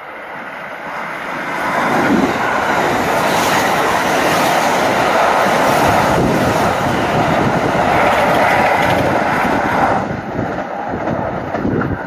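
Kintetsu limited express electric train passing through a station at speed without stopping. The sound builds over the first two seconds, stays loud for about eight seconds as the cars run by, then eases a little near the end.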